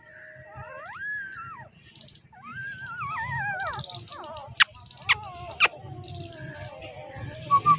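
Newborn puppies whining in thin cries that rise and fall in pitch. Three sharp clicks about half a second apart come midway, followed by a long falling whine.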